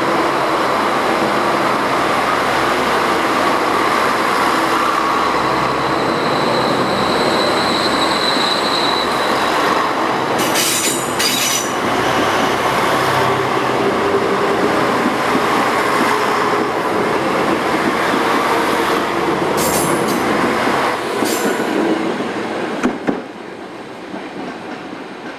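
KTR 8000 series Tango Explorer diesel railcar train pulling out and running past at close range: engine and wheels rumbling on the rails, with a few sharp clacks from the wheels. The sound falls away near the end as the train leaves.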